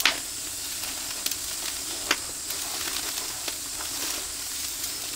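Meat sizzling on a grill over an oak-wood fire: a steady hiss broken by sharp pops, the loudest right at the start and another about two seconds in.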